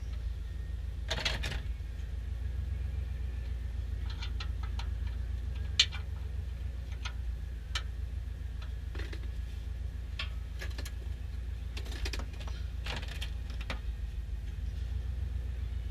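Scattered light clicks and clinks, like hand tools and metal parts being handled during an oil change, over a steady low hum; one sharper click about six seconds in.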